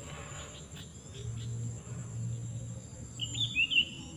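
A small bird chirping a few short, quick notes about three seconds in, over a steady high-pitched drone of insects.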